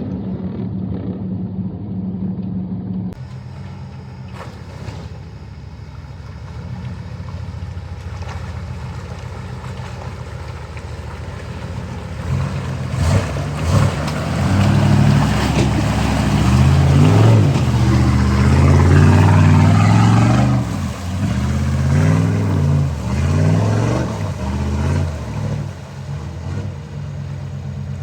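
An off-road 4x4's engine running, then revving up and down repeatedly through the second half, loudest in the middle of it.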